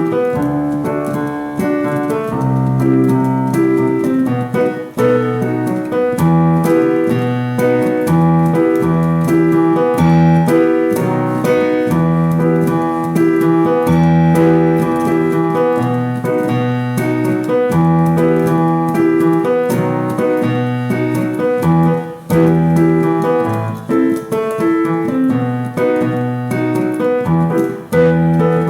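Instrumental keyboard accompaniment with a piano sound playing a steady, rhythmic children's-song backing track: a bass line under chords and melody notes, with no singing.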